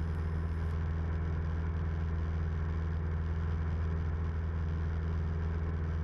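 Steady engine and propeller drone of a 1976 Cessna 172M's four-cylinder Lycoming O-320, heard inside the cabin, holding an even pitch and level throughout.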